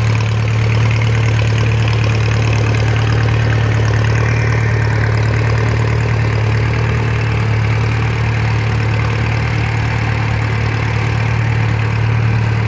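Small crank-started tractor engine running steadily, with an even low hum.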